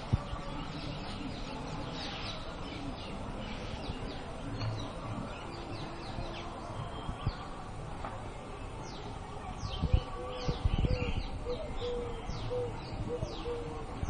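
Several birds chirping with short, falling high calls throughout. From about halfway through, a repeated low hooting note comes roughly twice a second. A few low thumps sound around the same point.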